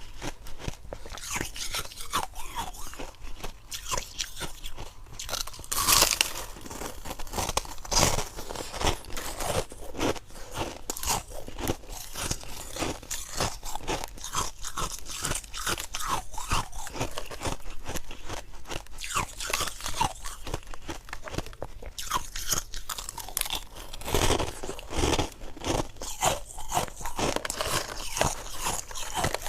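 Crunchy white ice being bitten and chewed close to the microphone: a steady run of rapid, irregular crunches, with a few louder bites now and then.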